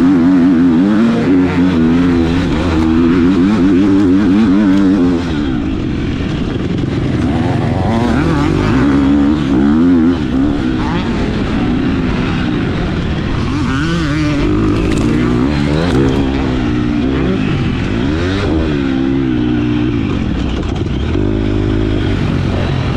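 Motocross bike engine racing, its pitch climbing and dropping over and over as the throttle opens and shuts through the gears.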